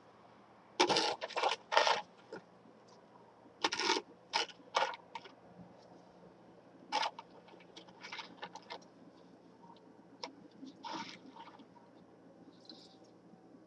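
Snow shovel scraping and scooping snow in short strokes, several in quick succession, then scattered single strokes.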